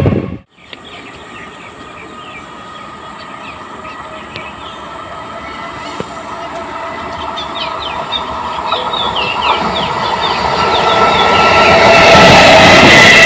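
Electric suburban local train approaching on the main line, its running noise and wheel clatter over the rail joints growing steadily louder until it is close by near the end.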